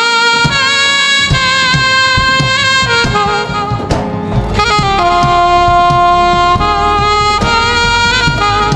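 Live band music led by a saxophone playing a melodic line with long held notes, over keyboard, bass and drums.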